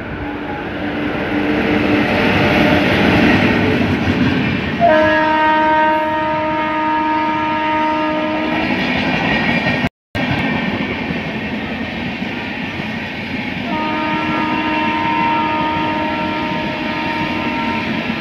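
Indian Railways electric express train passing close at speed: wheels and coaches rolling on the rails with a rising rumble, and a long locomotive horn blast about five seconds in that is held for nearly four seconds. After an abrupt cut the passenger coaches keep rolling past, and a second long horn blast sounds near the end.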